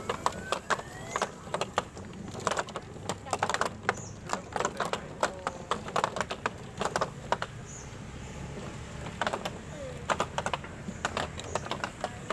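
Rapid, irregular clicking and clattering, coming in clusters with short lulls, over a low steady background hum.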